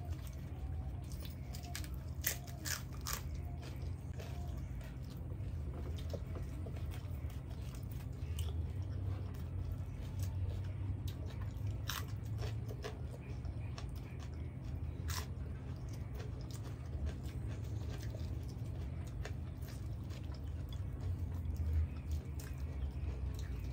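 Close-miked eating: bhature with chole being bitten and chewed, with sharp, irregular mouth clicks scattered throughout. A steady low hum runs underneath.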